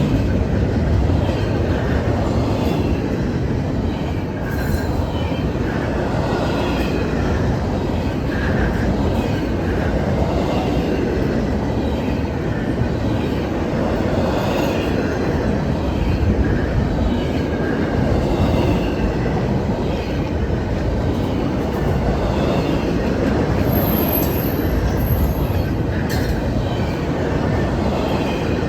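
Freight train cars rolling past: steady rumble of wheels on rail, with short scattered squeals of steel wheels against the rail.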